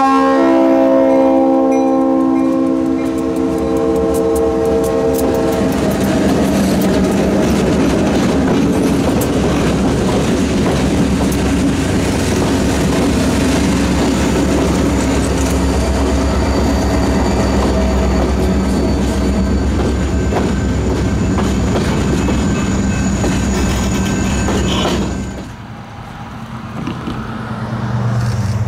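Diesel locomotive horn sounding a long chord at close range, stopping about six seconds in, then a string of diesel freight locomotives running past with engine drone and wheels clattering over the rails. Near the end the sound drops suddenly to a quieter, more distant locomotive engine.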